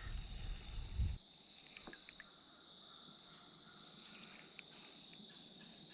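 Insects in a steady chorus: a constant faint, high-pitched drone. A low rumble is heard during the first second.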